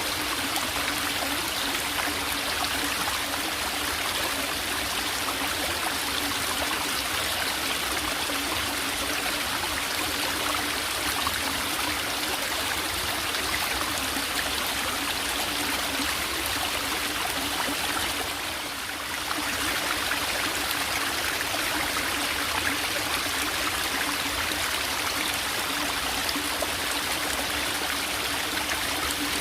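Small forest stream trickling and babbling steadily over rocks, with a brief dip in level about two-thirds of the way in.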